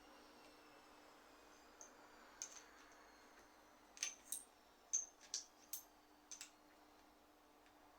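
A scattering of light, sharp clicks, some in quick pairs, over near-silent room tone.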